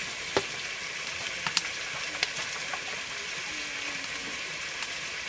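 Chicken pieces frying with ground spices and chili powder in a cooking pot: a steady sizzle, with a few sharp clicks through it.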